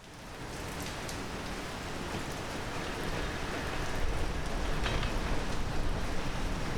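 Heavy downpour: steady rain with a few sharper drops striking close by, fading in at the start. A low rumble builds underneath about four seconds in.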